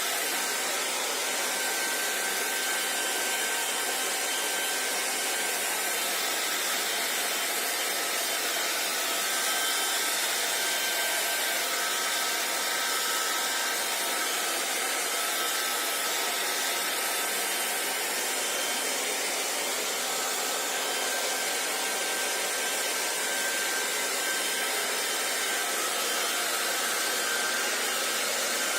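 Hair dryer running steadily, an even rush of blown air with a faint high whine from the motor and fan.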